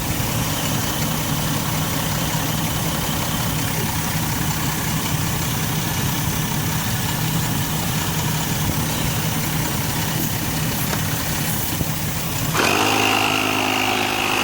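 A motor running steadily with a rough low hum. About twelve and a half seconds in, the sound changes to a smoother hum with a faint high whine.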